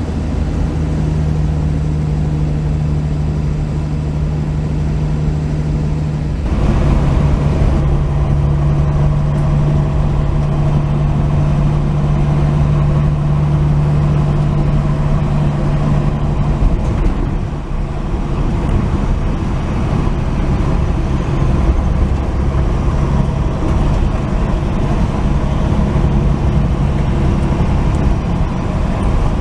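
1949 Chevy truck on the move, heard from inside the cab: a steady engine hum over road noise. It gets a little louder about six seconds in and dips briefly around seventeen seconds.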